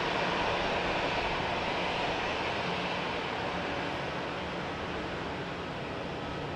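Jet airliner engine noise: a steady rushing roar that slowly fades as the aircraft moves away.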